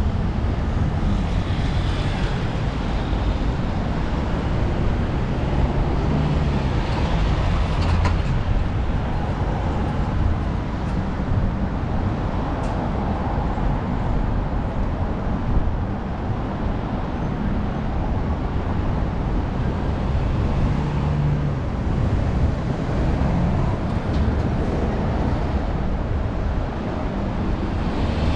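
Steady city traffic and road noise heard from a moving bicycle, a deep continuous rumble with engine hum from passing vehicles swelling a few times.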